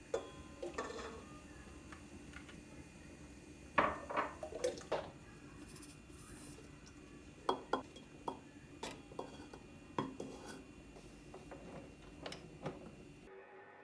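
Dishes and utensils being handled, scattered clinks and knocks with a cluster of quick clatter now and then, over a faint steady hum.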